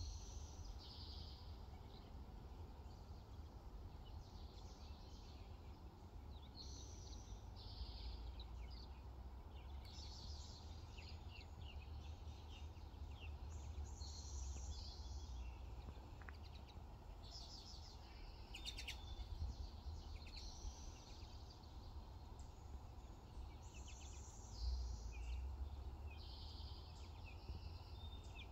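Several small birds singing and chirping in short high phrases, one after another, over a low steady rumble.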